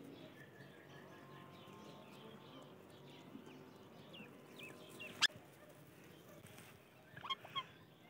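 Faint bird chirps and short calls, with a sharp click about five seconds in and a quick cluster of chirps near the end.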